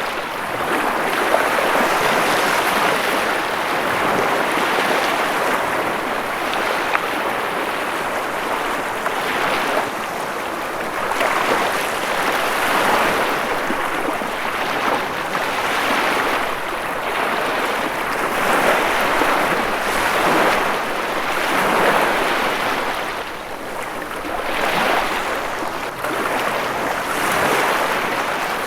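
Ocean waves washing on a shore: a steady rush of surf that swells and eases every few seconds.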